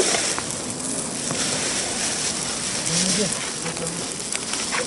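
Steady sizzling hiss with scattered small crackles from a charcoal and wood cooking fire.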